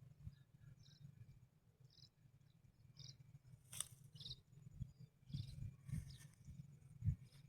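Quiet open-field ambience: short, faint high chirps come roughly once a second over a low rumble that swells now and then. A sharp click sounds just before the middle.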